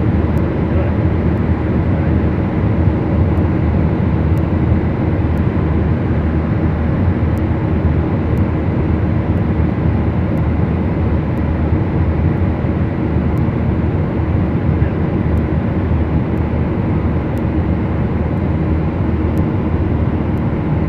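Twin piston engines and propellers of a Beechcraft Duchess light twin, a steady loud drone with no change in pitch.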